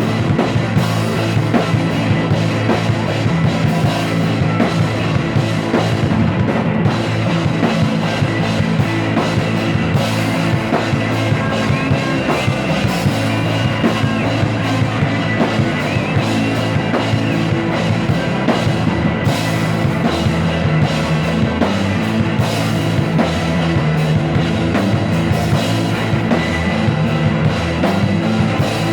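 Rock band playing steadily, with a drum kit and guitar.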